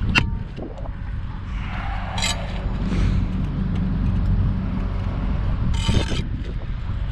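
Steady low rumble of wind buffeting the microphone, with two short scrapes of a brick trowel on mortar, one about two seconds in and one near the end.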